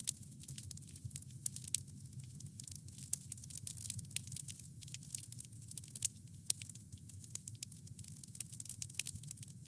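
Wood campfire burning, with frequent irregular crackles and sharp little pops from the wood over a low, steady rumble of the flames.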